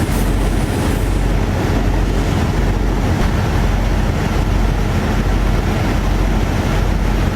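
Steady loud rushing noise with a deep rumble underneath.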